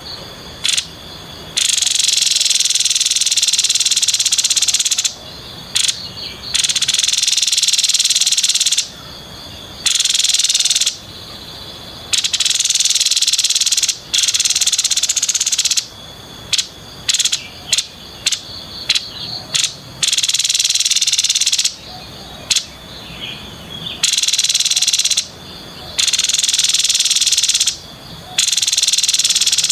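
Grey-headed babbler giving its 'konslet' call: a harsh, buzzing rattle sustained for two to four seconds at a time with short pauses between. Midway through, the call breaks into a series of short stuttering bursts.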